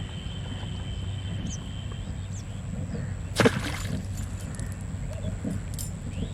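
A single short splash of water in the pond about halfway through, sudden and then trailing off within half a second, over a steady outdoor background with a constant thin high tone.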